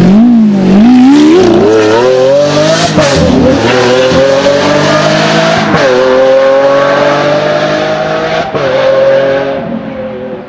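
Lamborghini Aventador's V12 with a Supersprint exhaust accelerating hard, its pitch climbing and dropping sharply at two upshifts in the second half. The sound fades as the car pulls away toward the end.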